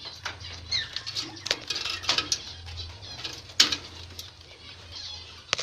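Scattered clicks and knocks as a clay breeding pot is fitted onto a wire budgerigar cage, with a brief budgerigar chirp under a second in.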